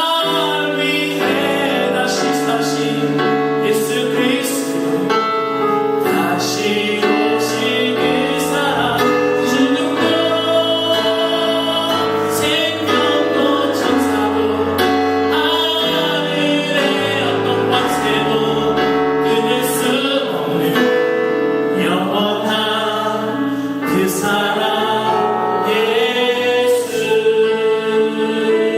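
Worship music: a gospel song with several voices singing over keyboard accompaniment and a moving bass line.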